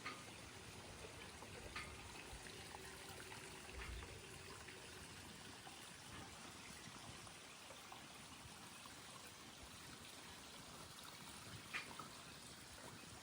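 Faint, gentle lapping and trickling of lake water at the shore, with a couple of small clicks.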